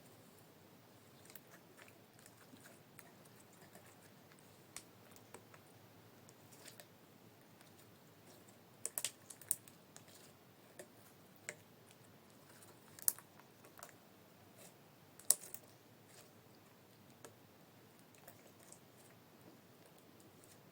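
Glitter slime being pressed and worked close to the microphone, giving soft, scattered clicks and pops over faint hiss. A quick run of pops comes a little before halfway, and two louder single pops follow later.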